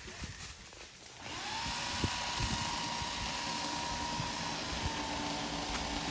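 A power saw cutting a tree starts up about a second in, its whine rising quickly, then runs at a steady high speed.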